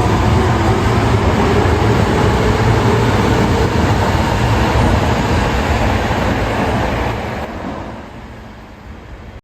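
Osaka Metro 22 series subway train running out of the platform with a loud, steady rumble of wheels on rail, fading away over the last two seconds before cutting off.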